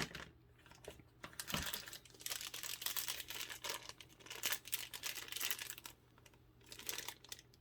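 Knife packaging being handled: a run of rustling, crinkling and small clicks, busiest from about two to six seconds in.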